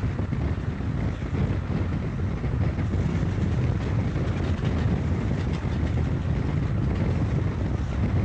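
Car driving at speed: a steady low rumble of engine and road noise with wind buffeting.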